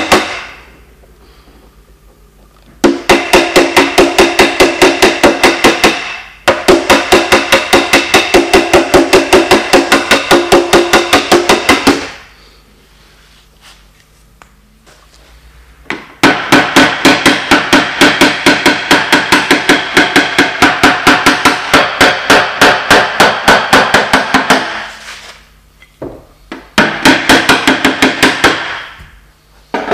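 A small hammer tapping rapidly on a car's sheet-metal panel, about five ringing strikes a second, in several long runs with pauses between them: tapping down the high spots of a dent in paintless dent repair.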